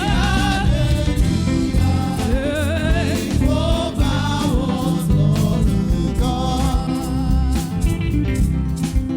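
Gospel worship music: sung vocals over a full band with a steady beat.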